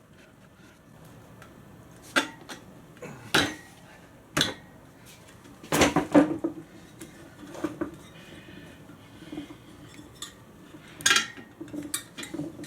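Scattered metallic clinks and knocks, a second or so apart, from hand work on a Honda CT110 wheel rim while an inner tube's valve is lined up and pushed through the rim hole.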